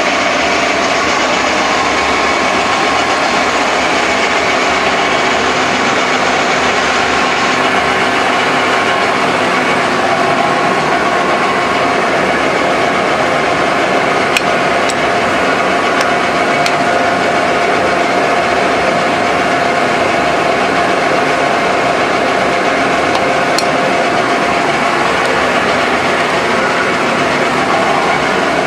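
A machine running steadily: a loud, even noise with a few steady tones in it, and several sharp clicks around the middle and one more later on.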